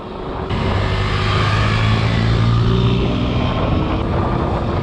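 A motor vehicle's engine running, its note climbing slightly in pitch, over a loud rush of wind on the microphone while riding.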